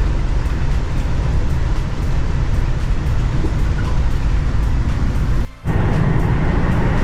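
Amtrak Acela train running at speed, heard inside a passenger car: a steady low rumble and rolling noise, which cuts out for a moment about five and a half seconds in.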